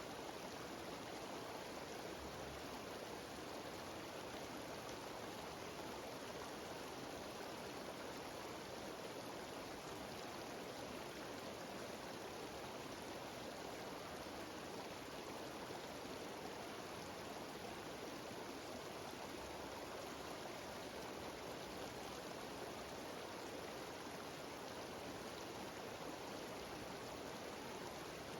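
Mountain stream cascading down a small waterfall: a steady, even rush of water.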